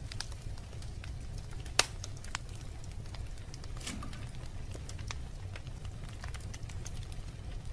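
Wood fire burning in a fireplace: a steady low rumble of flames with scattered crackles, and one sharp, loud pop about two seconds in.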